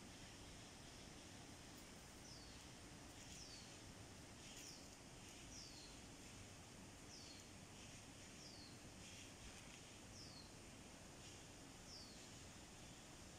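A bird calling faintly: a short, high note falling in pitch, repeated about once a second over a quiet background hiss.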